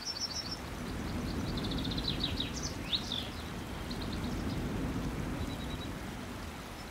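Small birds singing: several quick trills of repeated high notes and a few sweeping chirps, over a steady low rumble.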